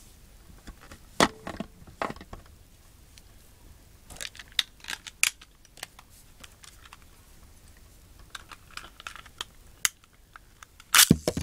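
Scattered sharp clicks and light rattles of plastic Beyblade spinning tops and launchers being handled, with a louder cluster of clicks near the end.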